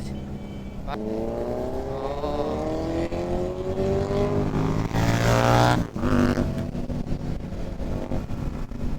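Kawasaki Z900 inline-four motorcycle engine accelerating, its pitch climbing steadily for about five seconds. Near six seconds in the note drops off sharply and settles into a lower engine sound.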